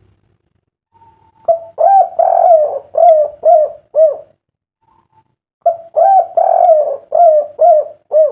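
Spotted dove (derkuku) cooing its 'kuk 3' song: two phrases of repeated coos, the first beginning about a second and a half in, the second about five and a half seconds in.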